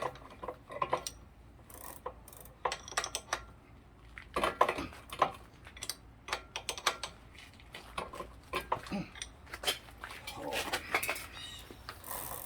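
Metal tool clicks and clinks, irregular and in clusters, as a stiff e-bike pedal is worked loose from the crank arm; the pedal is coming off much harder than it should.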